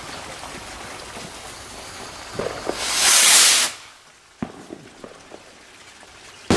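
Fireworks: a loud rushing hiss about three seconds in, lasting most of a second, followed by a sharp crack about a second later and another bang near the end.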